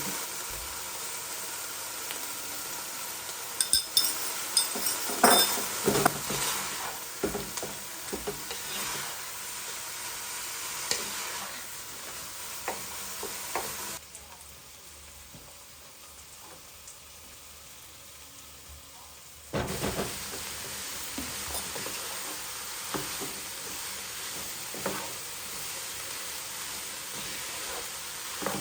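Food sizzling in a frying pan, with a utensil clicking and scraping against the pan as it is stirred, most busily a few seconds in. The sizzle drops to a much quieter hiss for about six seconds in the middle, then comes back.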